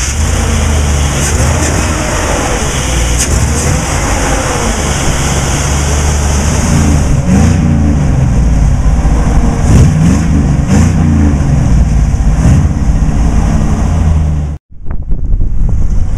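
LS1 5.7-litre V8 engine running steadily, with its pitch rising and falling several times around the middle as the throttle is blipped. Near the end the sound cuts off abruptly to wind noise on the microphone.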